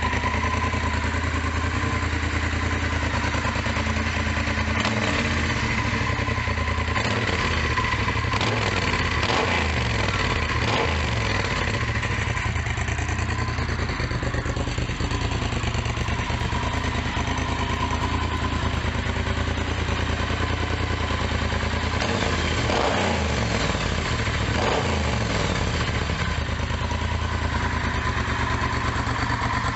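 Triumph Bonneville T120's 1200 cc parallel-twin idling through aftermarket slip-on mufflers, with no catalyst and an X-pipe, with a few short blips of the throttle about five seconds in, around eight to eleven seconds in, and again past twenty seconds.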